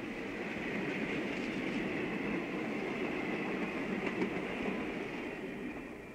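A train running, a steady rush of rail noise that dies away near the end, heard as a sound effect on a vinyl LP record.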